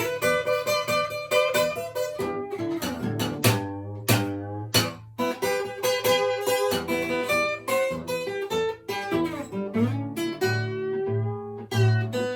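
Amrita Custom Guitars F-Model flattop acoustic guitar fingerpicked in a blues style: plucked treble notes over a steady, repeated thumbed bass note.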